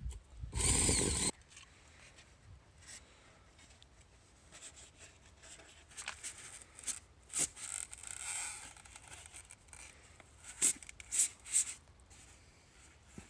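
Hand work on craft materials: a loud rip, like tape pulled off a roll, about half a second in, then scattered rustling and scraping, and three quick sharp snips near the end.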